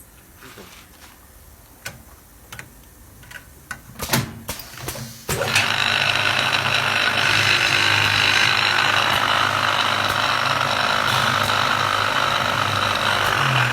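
Automatic wood-turning lathe for balls and knobs starting up about five seconds in and running steadily with a hum. A few clicks and knocks come before it starts.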